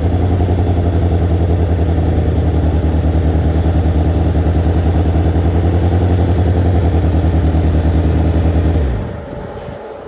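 Motorcycle engine idling steadily with an even pulsing beat, then switched off about nine seconds in, its note sinking and dying away quickly.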